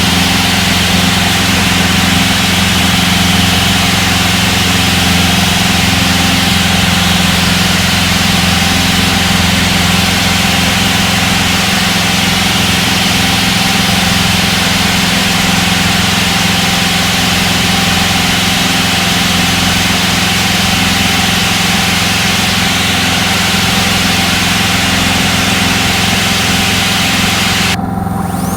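Citabria 7ECA's four-cylinder Lycoming engine and propeller droning steadily in flight, heard from inside the cockpit. Just before the end the hiss drops away and a faint high tone comes in.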